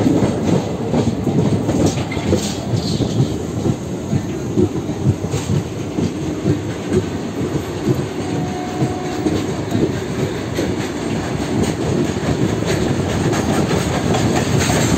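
Steel wheels of a moving Indian passenger train clattering and rumbling on the rails, heard from an open coach door, as a freight train of covered box wagons runs by on the next track. A steady, dense rattle of clicks.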